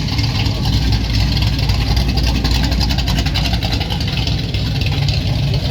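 A car engine running as it drives past: a steady low rumble, with a rapid even engine pulse that is clearest in the middle.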